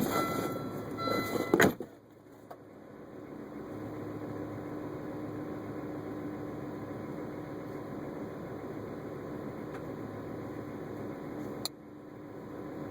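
A car's chiming warning tone repeats until a sharp thud, like a car door shutting, about two seconds in. Then the idling car and its heater fan give a steady hum heard from inside the cabin, broken by another sharp click near the end.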